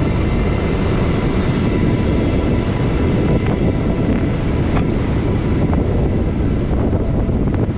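Heavy wind buffeting on an action camera's built-in microphone on a moving motorcycle, with the motorcycle's engine running underneath. The rumble is steady and loud throughout.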